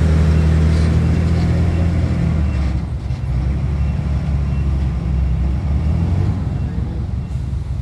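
Heavy diesel engine of earthmoving machinery running with a steady low drone. It eases off about two and a half seconds in.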